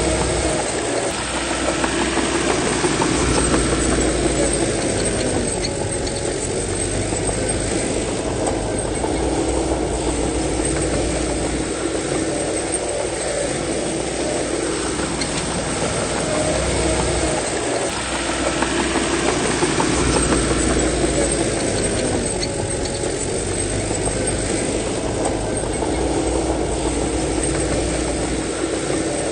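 Bulldozer's diesel engine working under load while pushing soil. The engine note rises and falls, with heavier pulls every several seconds.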